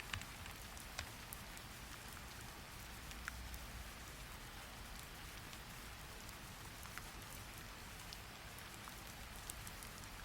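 Steady rain falling, an even hiss with a few scattered sharp ticks through it.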